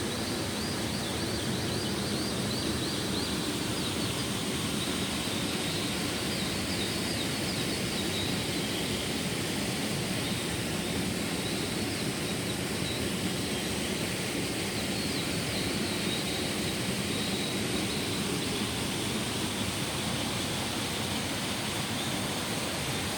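Steady rushing of a mountain stream, an even wash of noise, with faint high-pitched chirps scattered over it.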